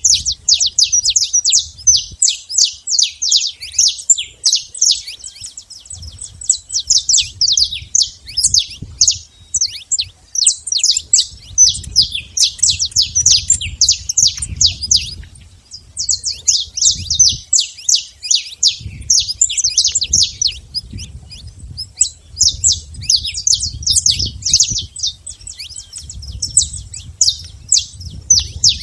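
Saffron finches singing: long runs of quick, sharp chirps, broken by a couple of short pauses.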